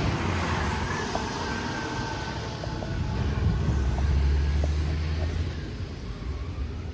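Garbage truck engine running with a steady low drone, swelling about halfway through and then fading.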